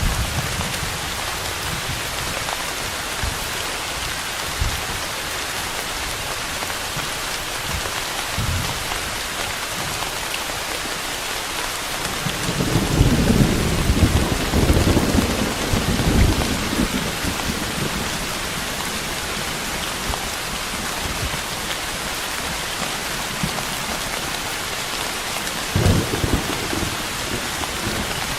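Steady rain hissing without a break, with a roll of thunder rumbling low for several seconds about halfway through and a shorter rumble near the end.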